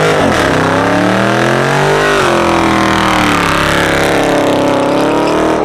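Car engine revving loudly. Its pitch climbs for about two seconds, drops sharply, then rises and falls again.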